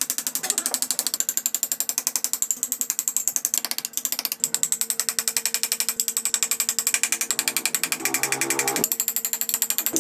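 Woodworking power tool running, with a fast, even clatter of mechanical clicks and a steady hum, and a short pitched whine near the end.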